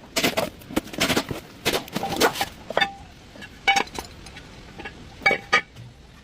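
Metal-on-metal clinks and knocks from hand tools and parts during brake work: about a dozen irregular sharp strikes, some ringing briefly.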